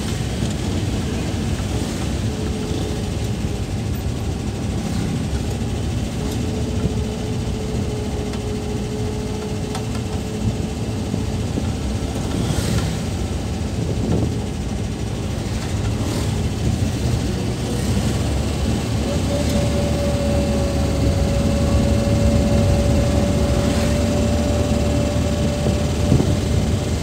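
Suzuki Carry pickup's engine and road noise heard from inside the cab while driving, with a thin steady tone that steps higher about two-thirds of the way through.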